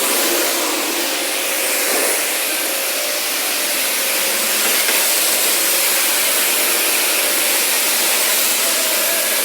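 Steady, loud hiss of industrial machinery, with a faint steady tone running through it.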